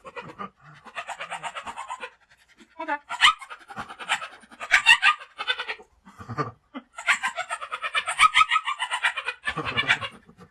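A pet animal making fast, rhythmic breathy or squeaky sounds in runs of a second or two, with short pauses between them.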